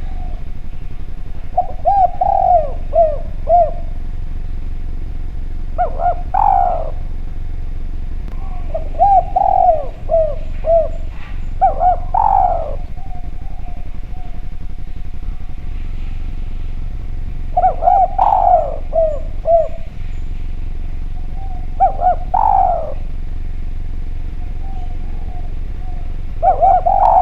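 Spotted dove (derkuku, tekukur) cooing: about seven short phrases of several coo notes each, coming every few seconds with pauses between, over a constant low hum.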